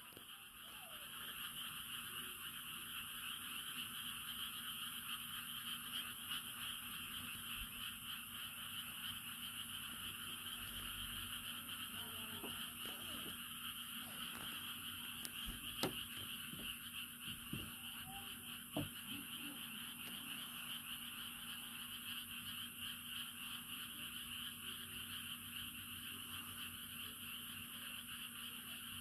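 Dense chorus of many paddy frogs calling at once, merging into a steady unbroken wash that sounds like the sea. There are a couple of short sharp clicks about halfway through.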